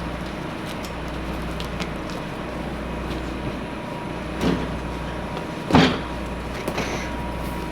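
Brief handling noises from a seat cover being worked onto a seat frame, two short louder scrapes or squeaks about four and a half and six seconds in, over a steady low background hum.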